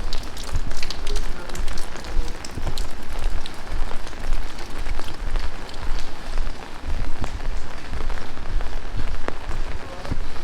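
Heavy rain falling and splashing on surfaces, a dense steady hiss with many sharp, close drop taps scattered through it.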